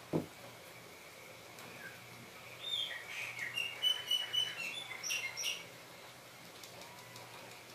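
A bird chirping in a quick series of short high notes for about three seconds, starting a little before the middle. A single thump comes just after the start.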